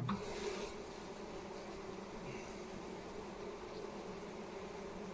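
Honeybees buzzing steadily in numbers around a hive. A sharp knock and a brief rustle come right at the start.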